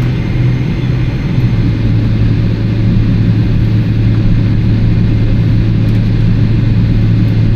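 Boeing 777-300ER's GE90-115B jet engines heard from inside the cabin while taxiing: a steady drone with a strong low hum that drops slightly in pitch about a second and a half in.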